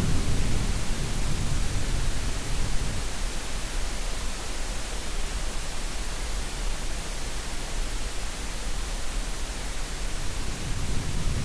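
Steady synthetic green noise, an even hiss. A low rumble fades out over the first few seconds and swells back in near the end.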